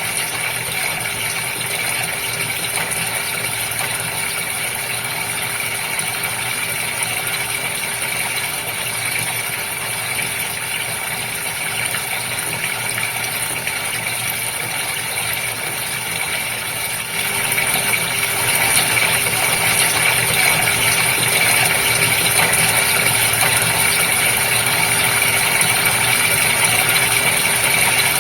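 Aquarium pump running steadily with a constant hum over rushing, bubbling water. It gets louder about seventeen seconds in.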